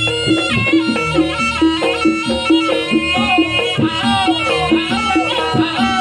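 Live Javanese traditional dance music for the pegon horse dance: a held wind-instrument melody over a steady, repeating pattern of pitched percussion notes.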